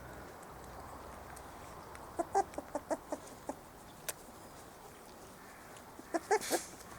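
Four-week-old Spanish Water Dog puppies giving short squeaky yelps: a quick run of about seven about two seconds in, then another brief cluster near the end. A single sharp click falls between them.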